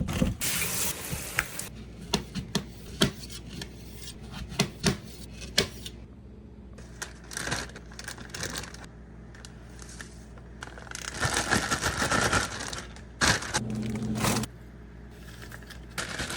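Kitchen handling sounds: a series of clicks, knocks and scrapes of containers and utensils, with a stretch of hissing, water-like noise about eleven seconds in.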